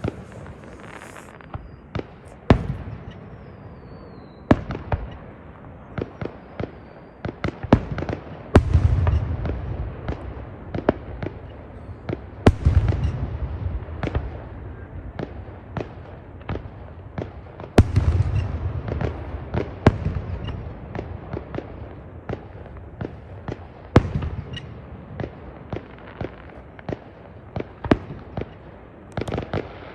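Fireworks going off: a rapid, irregular string of sharp bangs and crackles, with several heavier booms that rumble on for a second or two after.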